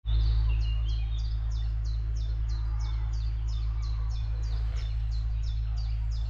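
A bird repeating one high note in an even series, about three a second, over a steady low rumble.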